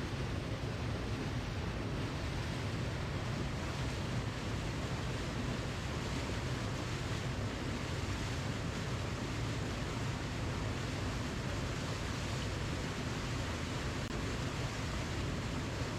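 Waterfall: a steady, unbroken rush of falling water, even in level throughout, with most of its weight in the low rumble.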